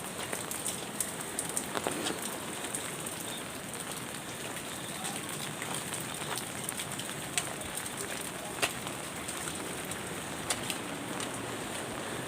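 Light rain falling steadily, a continuous hiss with scattered sharp ticks of individual drops.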